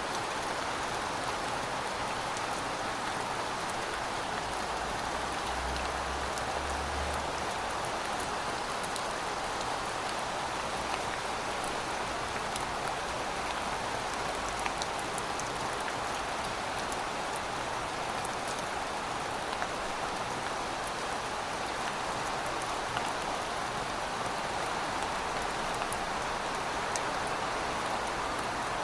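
Heavy rain falling steadily: a continuous hiss with scattered drop ticks. A faint low rumble comes in briefly about six seconds in.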